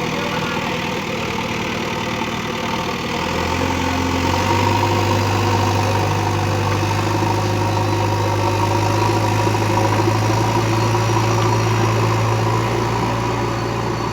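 JCB 3DX backhoe loader's diesel engine running, revving up about three to four seconds in and holding the higher speed, then easing back near the end.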